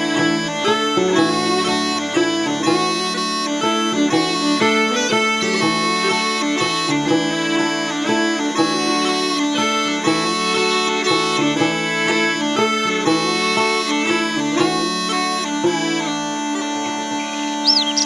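Scottish smallpipes playing a slow waltz melody over steady held drones, with fiddle and gourd banjo. Near the end a single bird-like chirp sweeps up and down above the music.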